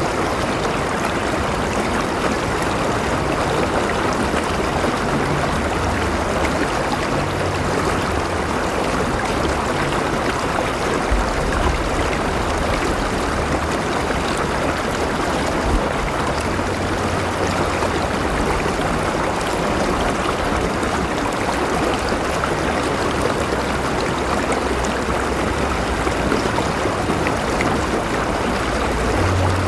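A river flowing steadily: an even, continuous rush of water, with a brief low thump about halfway through.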